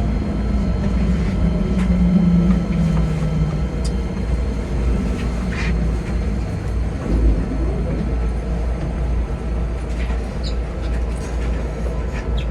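Keikyu 2100-series train heard from the cab: a steady low rumble with a hum that fades out about three and a half seconds in, and a few faint clicks.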